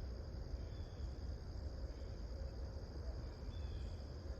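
Insects trilling steadily in one continuous high tone, over a constant low rumble.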